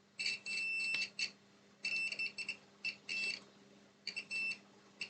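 Multimeter continuity buzzer beeping in short, broken bursts as the probes touch points around a PS5's HDMI encoder that read as a dead short, which the technician suspects means the encoder has failed.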